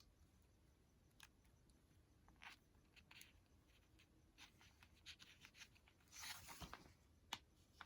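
Faint paper handling: scattered light ticks and soft rustles of paper being moved and sorted, with a longer rustle about six seconds in and a small click just after.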